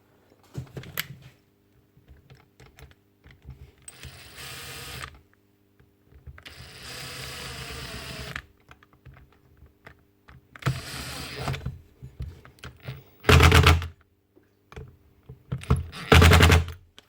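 Workshop handling noises from parts being fitted to a polisher: scattered clicks and rattles, a few stretches of hiss lasting a second or two, and two loud knocks near the end.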